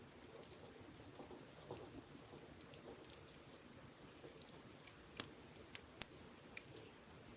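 Wood campfire crackling: irregular small snaps and ticks, with a few sharper pops about half a second in, near a second and a half in, and three more between five and six seconds in, over a faint steady hiss.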